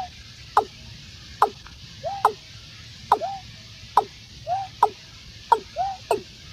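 Watercock calling: a repeated two-part call, a sharp note falling in pitch followed by a short arched lower note, about once a second.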